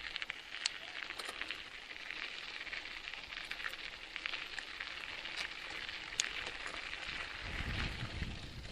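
Bicycle tyres crackling and crunching over a dirt trail, a steady run of small ticks; a low rumble comes in near the end.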